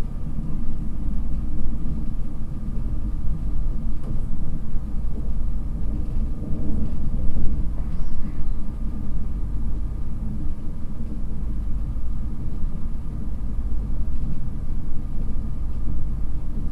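Steady low rumble of an InterCity 225 express train running at speed, heard from inside a passenger coach: wheels on rail and running noise with no distinct events.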